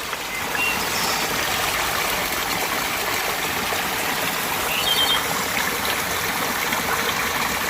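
Flowing stream water making a steady, even hiss, with a few short bird chirps over it.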